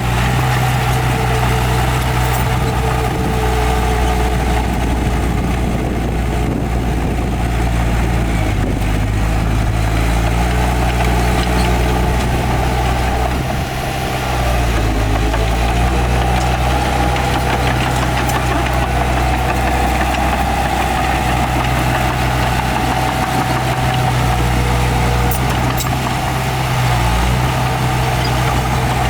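Heavy diesel earthmoving machinery running: a steady low engine drone whose pitch shifts up and down a few times as the engine load changes, with a brief drop in level about halfway through.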